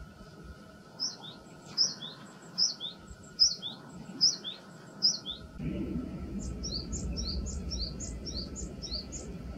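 Japanese tit singing, a two-note phrase, high then lower, repeated six times a little under a second apart. About halfway through a steady low rumble of background noise comes in, and a fainter, quicker run of the same kind of paired notes goes on over it.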